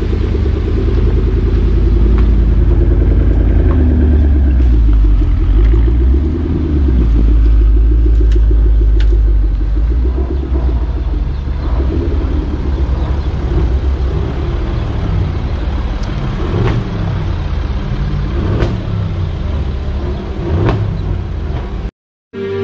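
Deep engine and exhaust rumble of a Porsche Panamera with a Lumma CLR 700 GT body kit as it drives off at low speed, loudest in the first half. After that comes a lighter mix of several cars' engines running in a slow-moving line. The sound cuts off sharply near the end.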